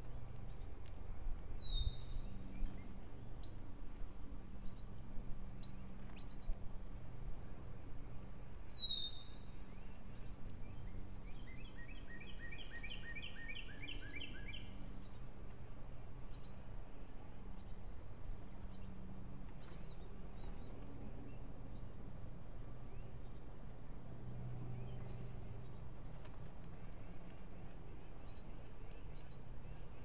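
Songbirds calling: a short, high chirp repeats about once a second, and two sharp downslurred notes sound, one near the start and one about 9 s in. In the middle comes a trill lasting about five seconds, with a lower series of falling notes under it. A steady low hum runs underneath.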